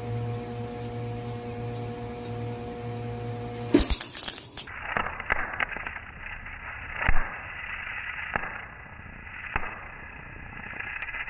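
A steady hum for the first few seconds, then, after a sharp burst about four seconds in, a welder crackling with scattered sharp pops and cracks as weld is laid onto broken exhaust manifold studs to extract them.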